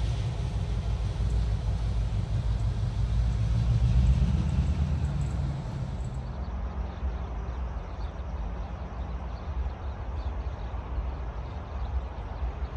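Freight train rolling past on the rails, a loud, steady low rumble that swells about four seconds in. About six seconds in it gives way to a quieter, steady low rumble from a train far down the line.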